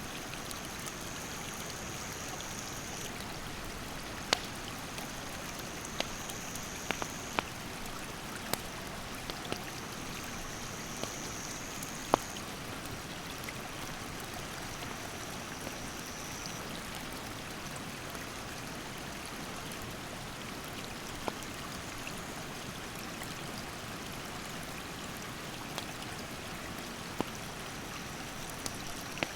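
Steady rush of a mountain stream, with a wood campfire crackling in sharp, scattered pops. An insect calls in a high, steady tone in stretches of two to three seconds, several times.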